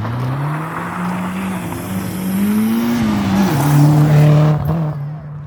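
Rally car engine revving hard as the car passes. Its pitch climbs and drops back with gear changes, and it is loudest about four seconds in.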